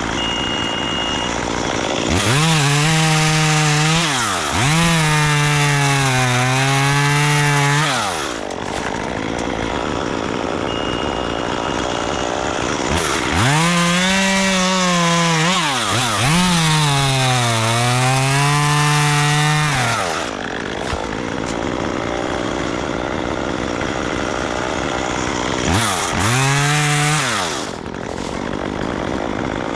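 Chainsaw engine revving up and cutting wood in three bursts, the last one short. Its pitch sags under load during each cut and recovers, and it drops back to idle between bursts.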